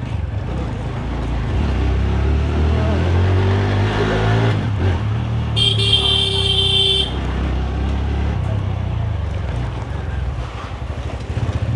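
TVS Radeon's 110 cc single-cylinder engine running as the motorcycle rides along, its pitch climbing from about two seconds in as it speeds up. About halfway a horn sounds once for a second and a half.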